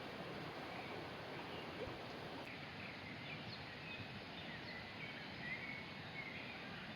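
Forest ambience: a steady background hiss with small birds chirping in short high calls, which begin about two and a half seconds in and repeat irregularly.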